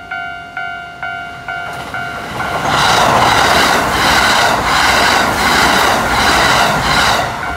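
A Japanese level-crossing bell clangs in a steady two-tone rhythm, about two strikes a second. About two and a half seconds in, a Kintetsu 50000 series Shimakaze express passes close by at speed, a loud rush with the wheels clacking over the rail joints about twice a second, drowning out the bell. The bell comes back near the end.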